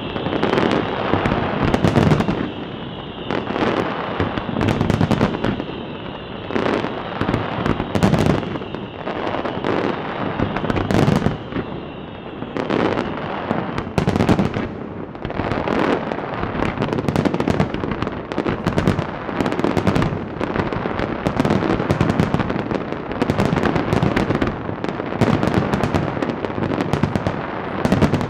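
Large fireworks display: aerial shells bursting in quick, uneven succession over continuous crackling. A high whine runs under the bangs and fades out about halfway through.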